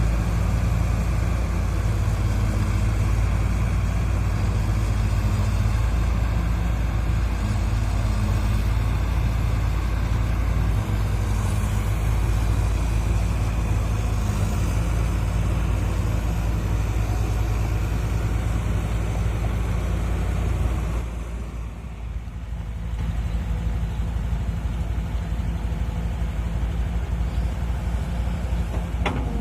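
Kobelco SK200 hydraulic excavator's diesel engine running steadily under digging work, its level dipping briefly about three-quarters of the way through and then coming back up.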